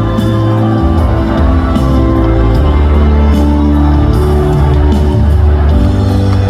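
Live band playing an instrumental passage of a trot song, amplified through a hall's sound system, with audience shouts over it.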